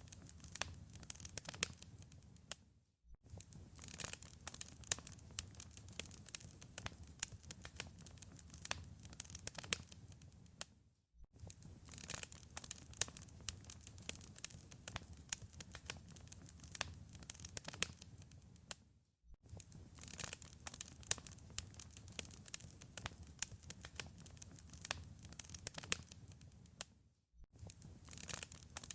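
Wood fire in a fireplace crackling, with a dense run of sharp pops and snaps over a low rumble. The sound cuts out briefly about every eight seconds, four times, then resumes.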